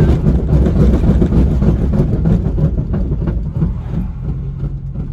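Straight-piped Nissan 350Z's V6 exhaust running loud on the road, crackling and popping, then easing to a steadier, quieter low drone in the last second or so.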